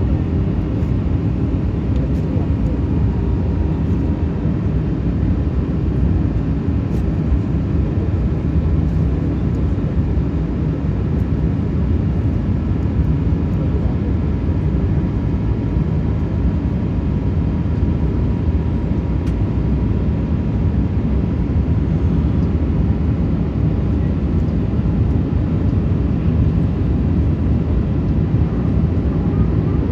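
Steady cabin noise of an Airbus A380-800 airliner as heard from a passenger seat: a constant low engine and airflow rumble with a faint steady hum on top.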